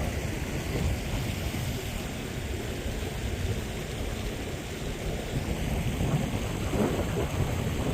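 Steady outdoor rushing noise: wind rumbling on the microphone, with the wash of open water.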